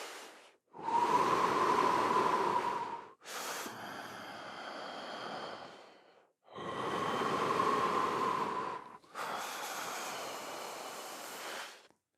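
Slow, deep human breathing, full breaths in and all the way out, in a paced breathwork rhythm: about two full breath cycles, each breath two to three seconds long with a brief pause between, every other breath louder.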